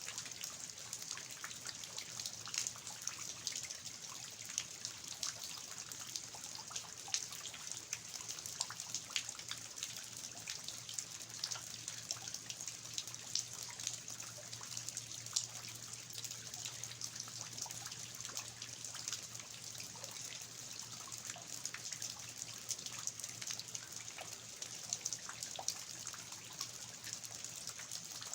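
Steady rain falling, an even hiss with many small, irregular drop clicks, along with water dripping and trickling off the roof eaves.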